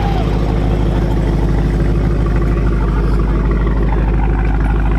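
A car engine running steadily, a low, even exhaust rumble with no change in pace.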